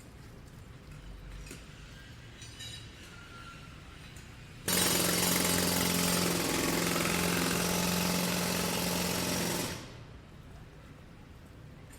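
Jackhammer at a street construction site starting abruptly about five seconds in, running loud and steady for about five seconds, then stopping. Before and after it there is only low background street noise.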